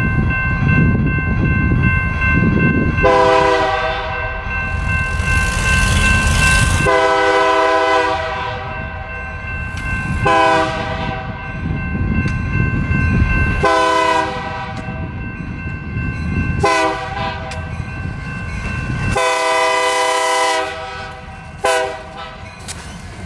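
Freight locomotive air horn sounding a series of long blasts with brief breaks between them, then a short blast near the end, over the low rumble of the passing train.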